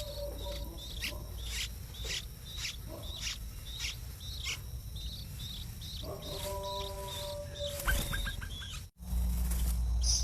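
A small bird chirping over and over in short, sharp notes about twice a second, over a low background rumble. A longer, lower steady call sounds about six seconds in, and the sound cuts out for a moment near the end.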